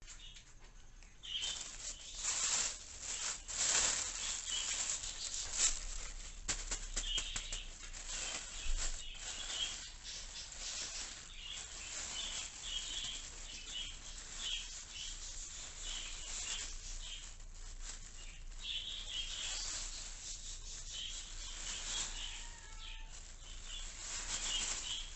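Plastic bags rustling and crinkling in uneven bursts, with budgies chirping over it.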